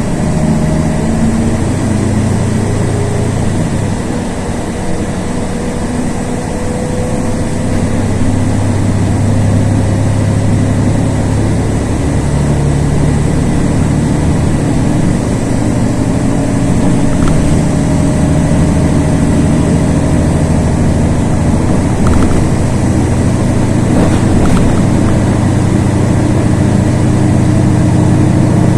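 LiAZ 6213.22 articulated city bus driving between stops, heard from inside: a steady engine and road drone with a faint whine that slowly rises in pitch.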